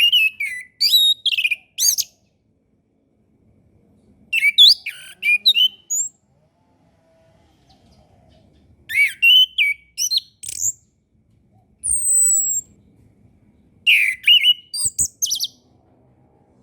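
Chestnut-capped thrush (anis kembang) singing: four short bursts of quick, varied whistled notes with pauses between them, and a single high down-slurred whistle in the middle. A brief low thump near the end.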